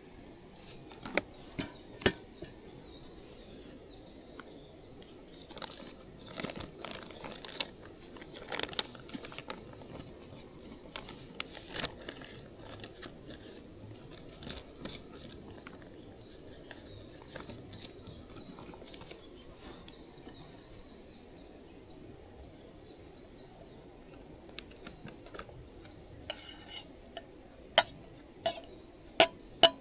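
Camp cookware and metal utensils being handled: scattered clinks and knocks, ending in a quick run of metallic taps.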